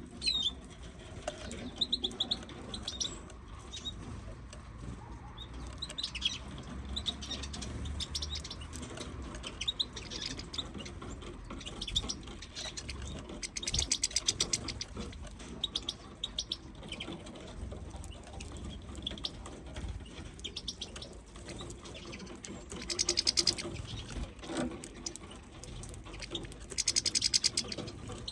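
Small caged finches chirping and twittering on and off, with three louder bursts of fast trilled notes, one about halfway through and two near the end, and some wing flutter.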